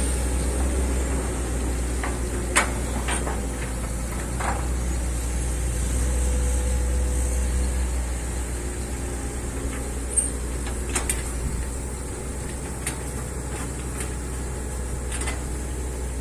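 Excavator's diesel engine running steadily with a deep rumble, with scattered sharp knocks and cracks over it, the loudest about two and a half seconds in.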